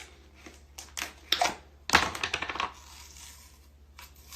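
Clicks and crinkling rustles of takeout food packaging being handled, a quick string of them loudest about two seconds in.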